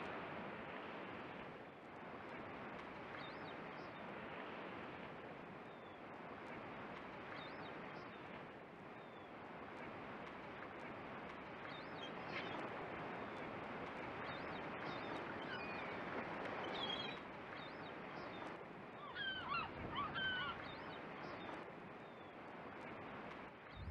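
Steady rush of surf and wind with birds calling over it now and then, the calls coming in a louder cluster near the end.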